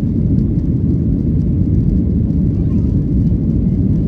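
Steady, deep roar of a Boeing 737-800's CFM56 jet engines and rushing air, heard from inside the passenger cabin during takeoff and climb.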